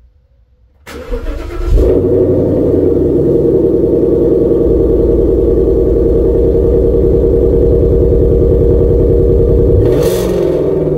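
Cold start of a Ford Mustang's 5.0 V8: the starter cranks briefly about a second in, then the engine catches and runs at a steady, loud fast idle from its exhaust. Near the end the sound drops a little in level as the idle settles.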